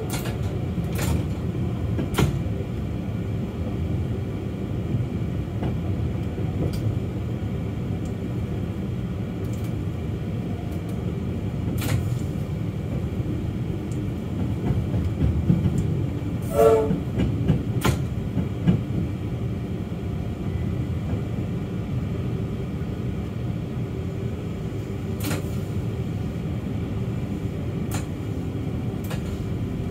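Electric suburban train running along the track, heard from the driver's cab: a steady low rumble with a few sharp clicks from the wheels on the track. A brief horn toot sounds a little past halfway through as the train nears the station.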